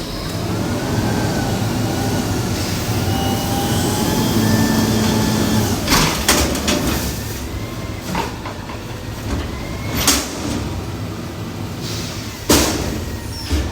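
Heavy vehicle passing with a steady low rumble and thin whining tones that drift up and down, broken by a few sharp knocks about six, ten and twelve seconds in.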